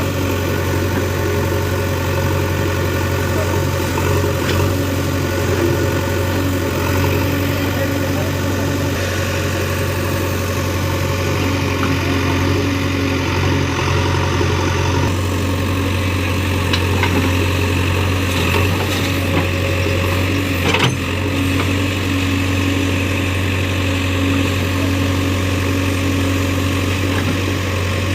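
Excavator's diesel engine running steadily with a low, even drone, and a single sharp clunk about three-quarters of the way through.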